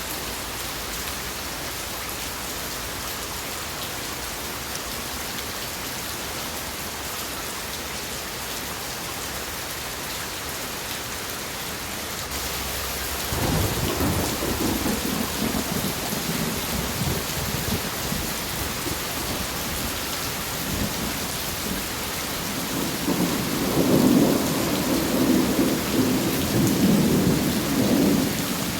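Steady rain falling, with thunder rumbling in about halfway through and a louder, longer rumble of thunder near the end.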